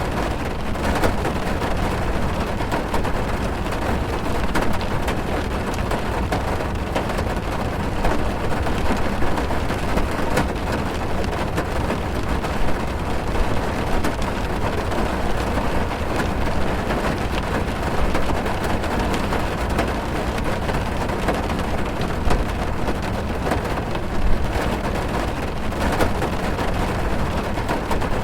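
Heavy rain falling on a car, heard from inside the cabin: a steady dense patter of drops on the roof and glass over a deep low rumble.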